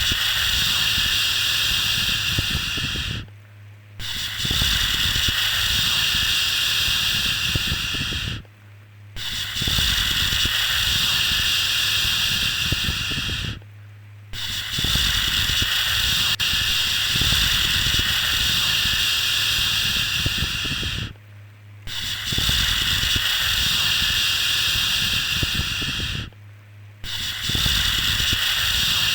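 Repeated long 'shhh' shushing sounds for soothing a baby, each held about four to seven seconds with a short break between, over a steady low hum.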